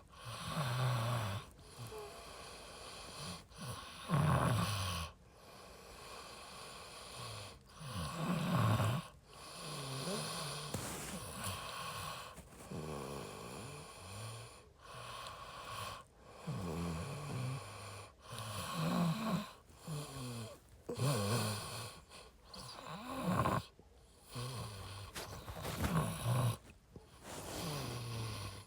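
A faint, muffled, low-pitched voice, indistinct, coming in short phrases with brief pauses between them.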